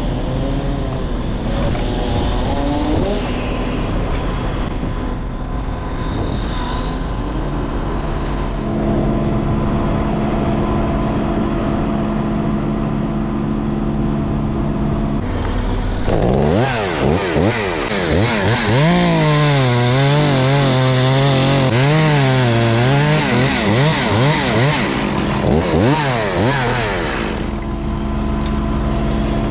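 Chainsaw running over a steady engine drone, revved hard and cutting from about halfway through for some ten seconds, its pitch swinging up and down under load, then dropping back.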